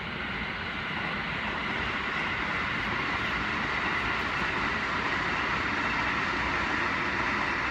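Electric multiple-unit train running along the tracks, a steady noise of wheels on rail that grows slightly louder over the first few seconds.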